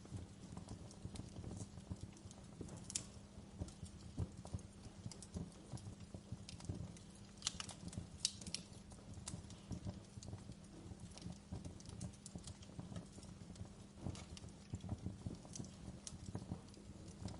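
Wood fire crackling in a fireplace: a steady run of small irregular snaps and ticks over a low rumble, with a few sharper pops from the burning logs.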